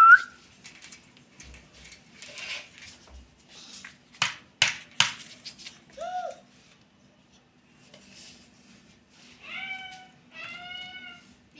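Pet parrot calling: a short call about six seconds in, then two longer, wavering calls near the end. A few sharp clicks come about four to five seconds in.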